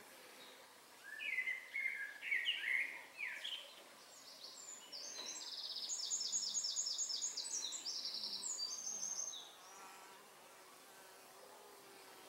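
Birdsong: a short phrase of quick notes a second or so in, then a fast, high trill of repeated notes lasting about four seconds. Faint buzzing of honeybees at the hive entrance runs underneath.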